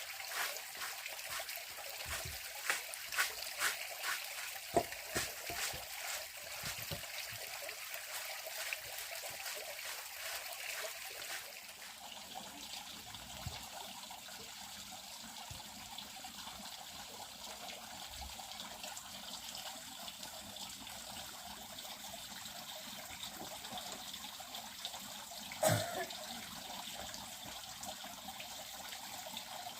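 Water trickling steadily. Many short taps and clicks come over the first ten seconds or so, and a single sharp knock about 26 seconds in.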